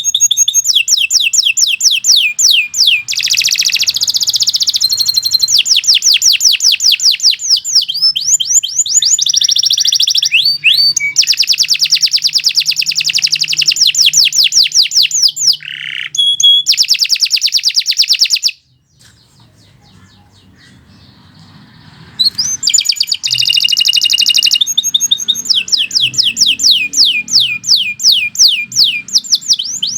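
Domestic canary singing long, fast trills of rapidly repeated high sweeping notes, shifting from one trill to the next. The song breaks off for about three seconds past the middle, then starts again.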